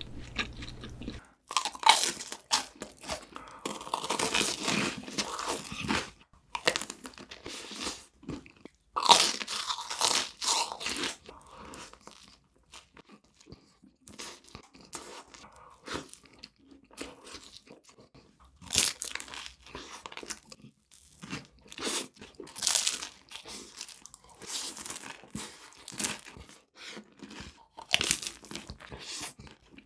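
Close-miked eating: a person biting into and crunching sweet food, with loud irregular crunches every few seconds and quieter chewing between them.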